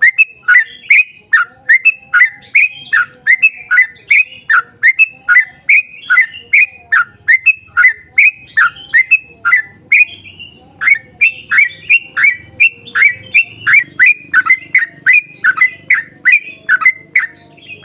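Yellow-vented bulbul (trucukan) singing a long, rapid run of short bubbly notes, about three to four a second, with one brief break about ten seconds in. This is the bird's extended 'ropel' song.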